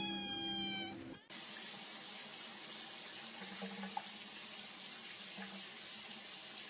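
A cat gives one long meow. About a second in it cuts off, and a steady hiss of tap water running follows.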